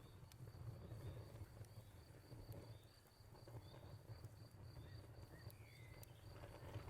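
Faint crickets chirping in a steady, evenly pulsing trill over the low rumble of a crackling fire, with a few sharp pops. A short sliding bird whistle comes about five seconds in.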